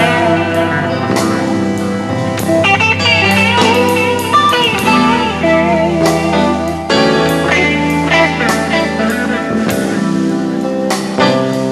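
Instrumental passage of a rock song: a lead guitar playing wavering, bent notes over bass and drums.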